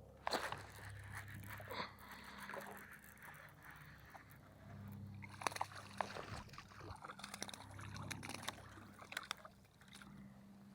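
Irregular knocks, clicks and rattles of gear being handled aboard a fishing kayak, with water sloshing against the hull.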